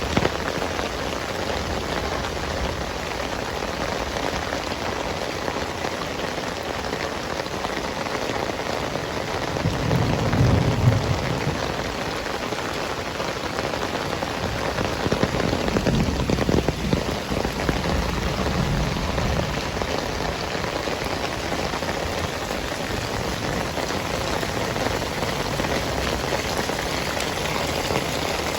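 Heavy rain falling steadily, a dense even hiss, with low rumbles swelling about ten seconds in and again around the middle.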